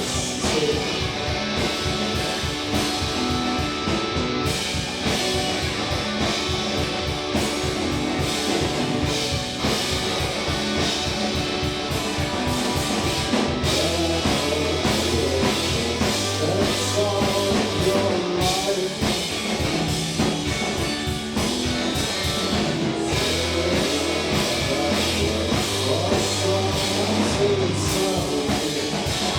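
Indie rock band playing live: electric guitars, bass, drum kit and a singing voice, with a steady driving beat. The bass line comes forward about halfway through.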